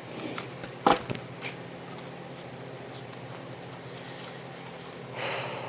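A tarot deck being handled and shuffled: a sharp card snap about a second in among a few lighter clicks, then a short rustle near the end. The cards are slipping out of hand into a mess.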